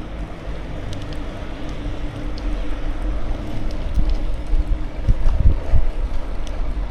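Bicycle tyres rolling along the road with a steady hum, and wind buffeting the microphone in gusts that grow stronger in the second half.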